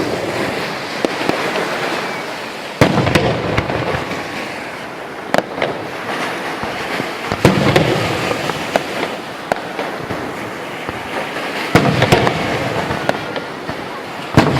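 Fireworks going off: five sharp bangs a few seconds apart, each followed by a spell of crackling, with many small pops in between.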